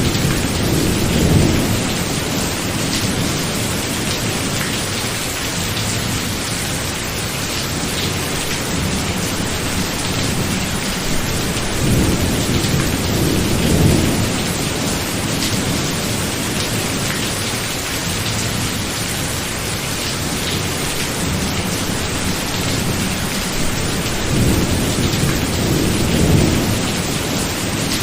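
Steady heavy rain with thunder rumbling low three times: at the start, about halfway through and near the end.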